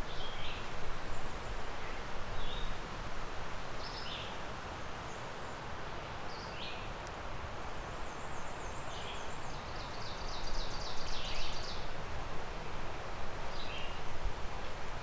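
Woodland songbirds calling over a steady rushing background: short high chirps scattered throughout, and a quick run of repeated trilled notes a little past the middle.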